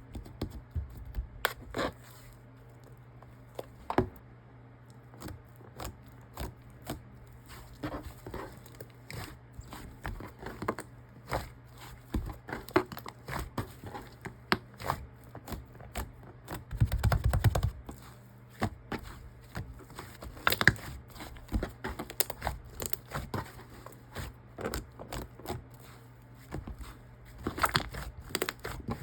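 Soft, milky-white fluffy slime being squeezed, poked and stretched by hand, giving irregular crackles and small pops, with a longer, louder squish a little past halfway.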